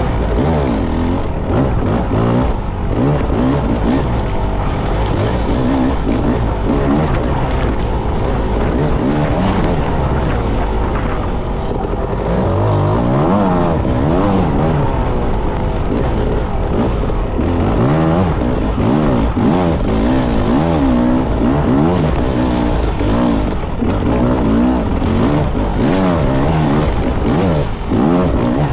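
Enduro motorcycle engine revving up and down continuously while ridden, its pitch rising and falling every second or so, heard close up through a GoPro camera carried on the rider or bike.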